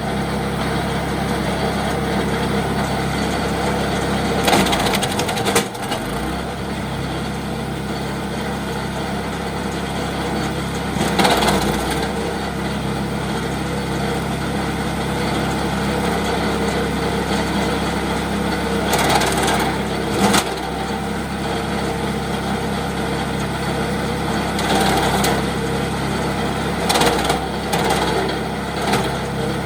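Wood chipper running steadily under power, with about five loud bursts of cracking and splintering wood as branches are fed through and cut into pieces.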